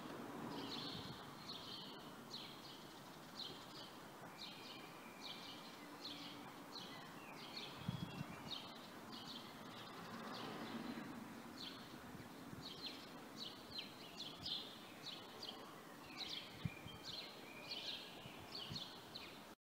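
Small birds chirping over and over in short, high calls over a steady background of outdoor noise, with a couple of soft low thumps, one about eight seconds in.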